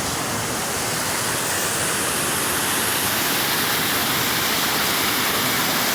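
Waterfall on the young River Severn, a steady loud rush of falling water.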